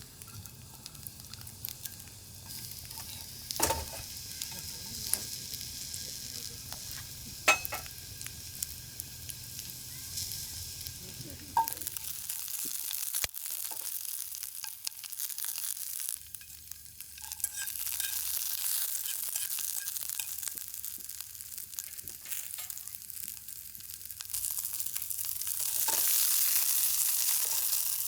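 Food sizzling as it fries in a pan over a campfire, with a steady hiss that swells twice in the second half. A few sharp clicks of the pan or utensils come in the first half.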